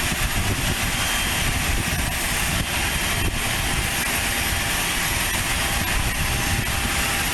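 Light propeller airplane's engine running at a distance, a steady even drone, with wind rumbling on the microphone underneath it.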